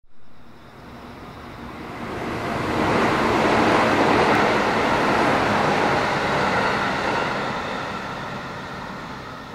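JR West 221-series electric multiple unit passing close by: steady running noise of wheels on rail that grows to its loudest about four seconds in, then slowly fades as the train moves away.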